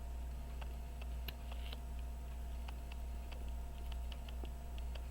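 Faint, irregular light clicks of small metal hand tools working on a pocket watch movement, gripping at a stuck guard pin, over a steady low electrical hum.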